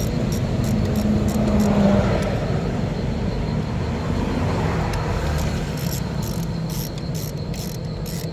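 Steady low engine-like rumble, with a brief hum rising out of it about a second in. Over it, insects chirp in an even rhythm of about four chirps a second, fading out in the middle and returning near the end.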